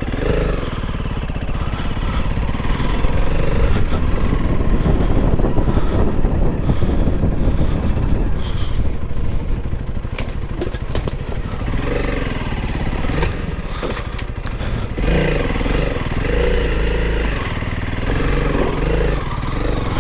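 Honda CRF300L Rally's single-cylinder engine running steadily while the bike is ridden, with a heavy low rumble of wind over the microphone.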